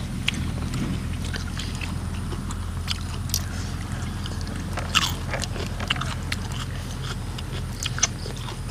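Close-up mouth sounds of people chewing spicy green papaya salad and blood cockles: wet smacking and scattered clicks, with a couple of sharper snaps near the middle. A steady low hum runs underneath.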